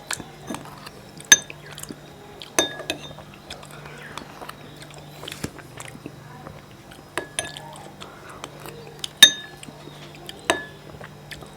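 A spoon clinking against a bowl several times during eating, each strike ringing briefly.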